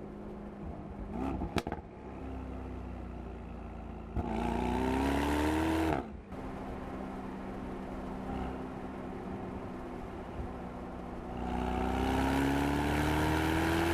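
Mercedes-AMG SL 63's 4.0-litre twin-turbo V8 cruising with a steady drone, then accelerating twice, its pitch rising each time. The first pull, about four seconds in, cuts off sharply. The second builds more slowly near the end. There are two sharp cracks about a second and a half in.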